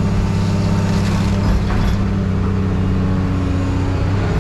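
Heavy scrap-handling machine's engine running steadily, with a few faint knocks of scrap being moved about one to two seconds in.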